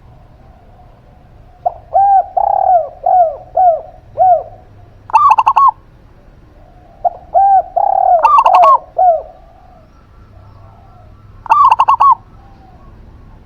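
A zebra dove and a spotted dove cooing in turn. There are two runs of lower, arched coo notes, and three short, fast, higher-pitched rattling trills, which come about 5, 8 and 11.5 seconds in.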